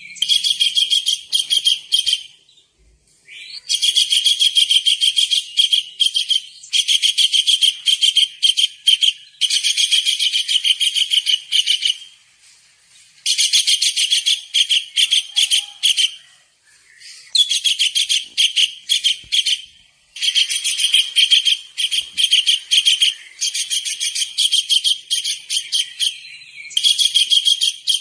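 Tengkek udang (small kingfisher) calling in runs of rapid, sharp, high-pitched notes, each run two to three seconds long with short pauses between.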